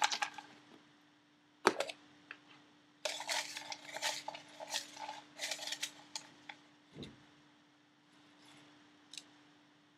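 A hand rummaging through name slips in a container: paper rustling with light clicks and clinks against the container, a sharp knock about two seconds in and a dull thud a little after halfway.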